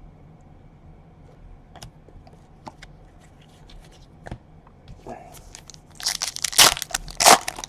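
Trading card pack's wrapper crinkling and tearing, with cards being handled: faint scattered clicks at first, then a loud burst of crackling and rustling in the last second or two.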